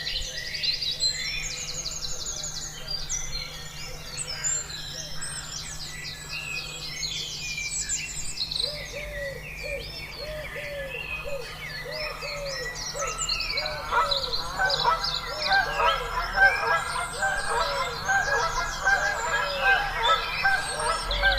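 A chorus of birds: many high chirps and trills throughout, joined about eight seconds in by a repeated lower honking call, building into a louder, denser flock chorus near the end.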